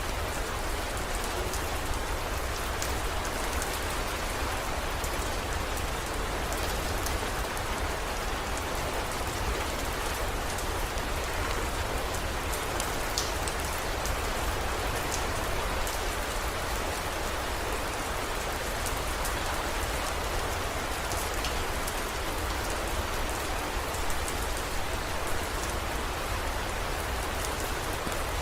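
Steady heavy rain pattering on surfaces, a constant wash with scattered individual drop ticks.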